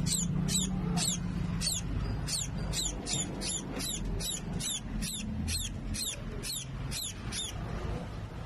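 Featherless nestling bird cheeping over and over, short high falling chirps about three a second, stopping shortly before the end. The cheeping is a fallen chick's begging call.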